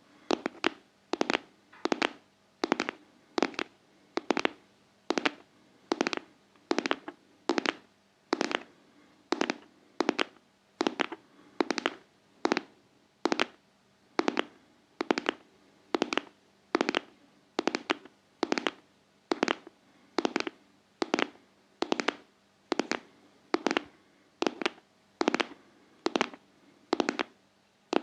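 ASMR tapping: sharp taps in a steady rhythm, falling in close pairs about once every second, like a heartbeat.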